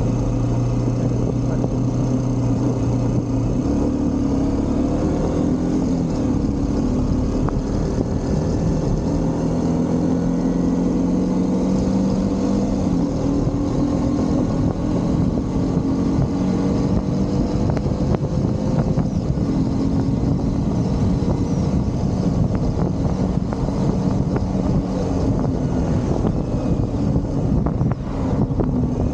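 Motorcycle engine running under way, with wind and road noise. Its pitch shifts a few times and climbs slowly for several seconds in the middle.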